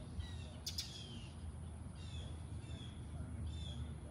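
Birds calling from the trees: a series of short, falling chirps, about one every half second to second, over a steady low background rumble. A single sharp click sounds about two-thirds of a second in.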